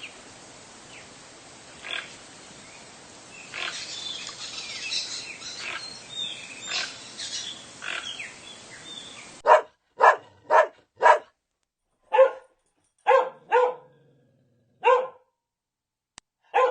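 A dog barking: a quick run of four short, sharp barks, then about five more at uneven gaps. Before the barks, a stretch of steady hiss with scattered faint short sounds.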